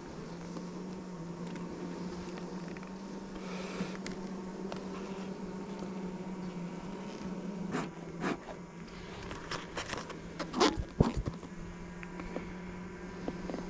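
Honeybees buzzing steadily around an open hive during an inspection, a continuous low hum. From about eight to eleven seconds in, a few sharp knocks and clicks of handling cut through the buzz.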